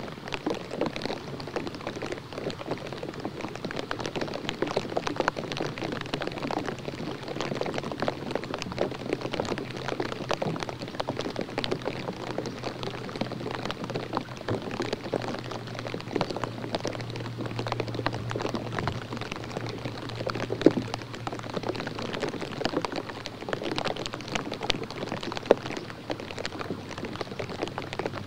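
Steady, dense pattering of small water drops, like light rain or fog drip on the outdoor camera, over a low steady hum, with two sharper clicks in the last third.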